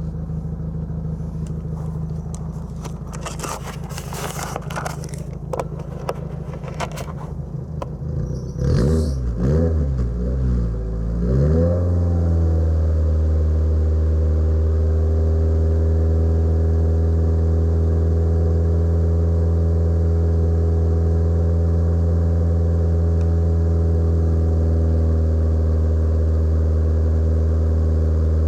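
Nissan March K11's four-cylinder engine running on its first start after a year and four months of sitting, with clicks and crackles over the first several seconds. About nine seconds in its note wavers up and down for a couple of seconds, then it settles into a louder, steady, even run.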